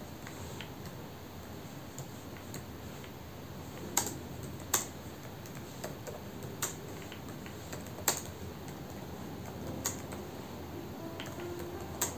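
Scattered sharp clicks and taps of desk work, irregular and a second or more apart, the loudest about four, five and eight seconds in and again near the end, over a steady low background noise.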